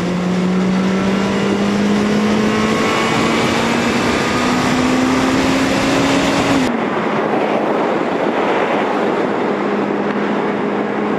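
Yamaha XJ750 Seca's four-cylinder engine under acceleration at freeway speed: the pitch climbs steadily for about six and a half seconds, then drops suddenly and holds steady, as on an upshift or easing off the throttle. Wind rushes over the microphone throughout.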